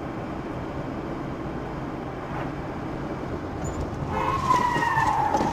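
Steady car road noise, then about four seconds in a car's tyres squeal in a hard skid, one long squeal falling slightly in pitch.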